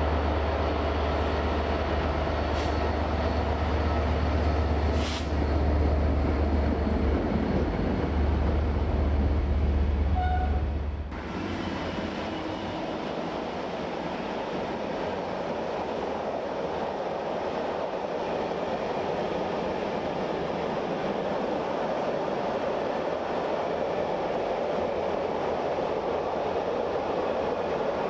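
Container freight trains rolling past on the main line. First comes a steady low drone over the rumble of the wagons' wheels on the rails, with a few faint clicks. About eleven seconds in this gives way abruptly to an even rushing rumble that slowly builds as a faster container train runs by.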